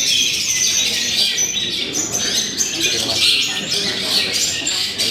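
Several songbirds singing at once in a dense, continuous mix of quick chirps and trills, with faint voices murmuring underneath.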